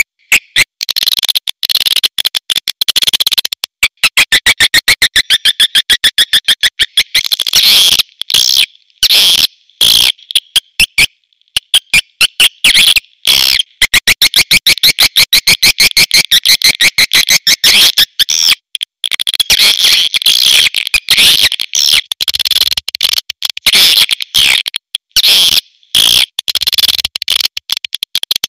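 Edible-nest swiftlets calling: loud, rapid trains of sharp chirping clicks, high-pitched, coming in runs of a few seconds with brief breaks. A recorded swiftlet call track of the kind played in swiftlet houses to lure the birds in to roost and nest.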